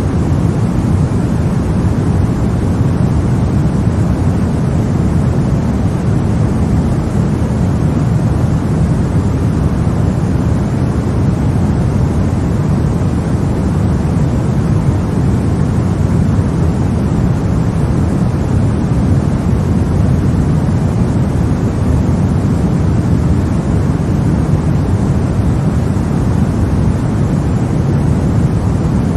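Steady white-noise sleep sound for babies, an even rushing hiss weighted toward a deep rumble, unchanging throughout.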